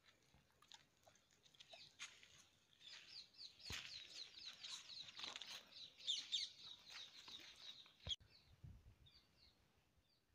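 Faint birds chirping: a quick run of short high chirps, densest in the middle, thinning out after a sharp knock about eight seconds in.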